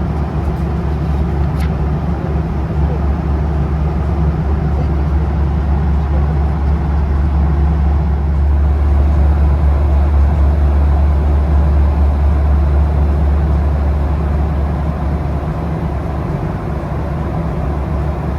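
Steady cabin noise of a Spring Japan Boeing 737-800 jet airliner in flight: a deep engine and airflow rumble, slightly louder in the middle.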